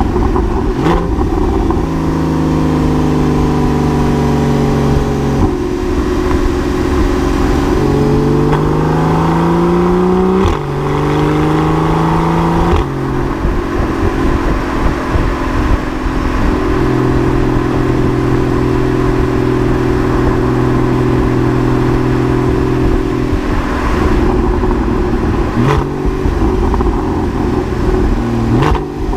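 Porsche 981 Cayman's flat-six engine through a SOUL Performance valved exhaust. It holds steady revs in stretches, climbs in pitch under acceleration, then drops suddenly about ten seconds in, as at a gear change.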